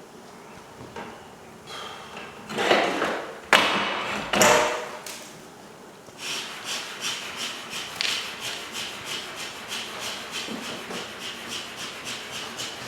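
A few louder knocks and rustles, then a quick run of rasping strokes, about four a second, from a hand tool sawing or scraping into the wall.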